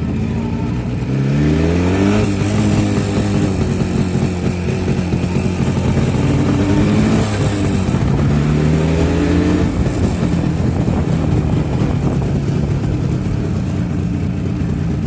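Two-stroke motorcycle engine running and being revved, the pitch climbing and easing back down twice between steadier running.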